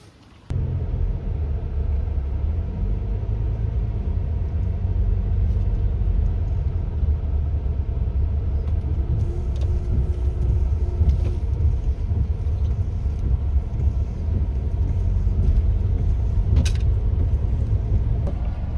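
Steady low rumble of a car running, which starts abruptly about half a second in.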